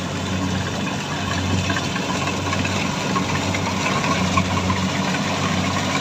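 Farm machine's engine running steadily at an even speed, with a constant low hum.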